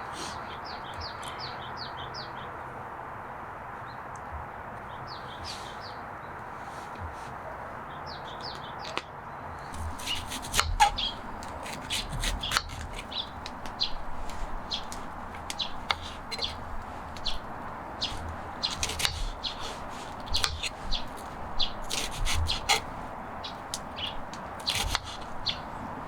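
Small birds chirping in short high runs over a steady hiss. From about ten seconds in, a dense string of irregular sharp clicks and knocks takes over and is the loudest sound.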